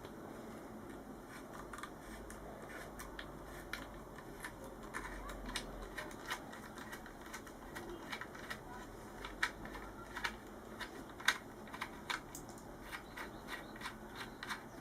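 Small screwdriver unscrewing a bolt on a TOZ-106 shotgun: faint, irregular metallic clicks and scrapes of the tool and the turning bolt, coming more often and louder in the second half.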